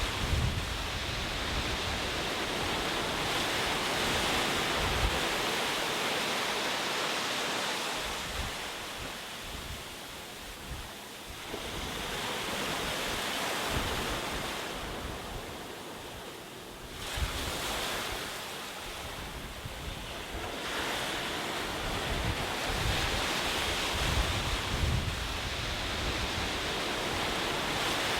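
Ocean waves washing onto a shore, a steady rush that swells and ebbs several times, with one sudden surge of surf partway through. Wind buffets the microphone with low rumbles.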